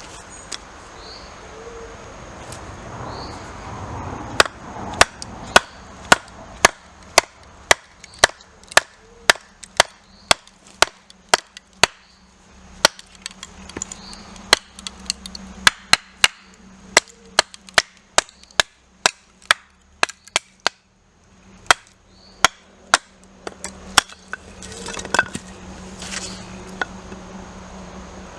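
Wood being chopped: a long run of sharp blows, about two a second, broken by two short pauses, with a few more irregular knocks near the end.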